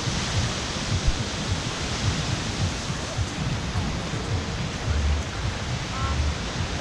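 Outdoor wind buffeting the microphone over a steady rushing noise, with a low hum coming in and out from about five seconds in.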